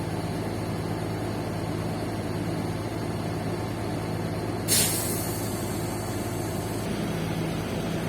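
Scania K310 coach's diesel engine idling steadily, with a sudden air hiss from the air brakes just over halfway through that fades away over about two seconds.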